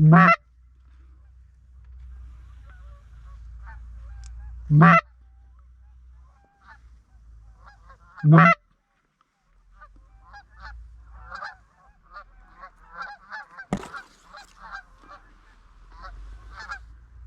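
Geese honking: three loud, close honks about four seconds apart, then from about ten seconds in a flock calling farther off in a running chatter of many short honks. A single sharp click sounds a few seconds before the end.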